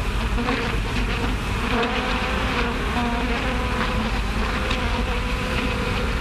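Swarm of bees buzzing, a steady unbroken drone.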